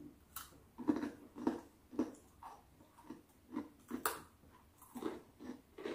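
Close-up chewing of a crunchy, dry cracker-like snack: a run of short, irregular crunches, roughly two a second.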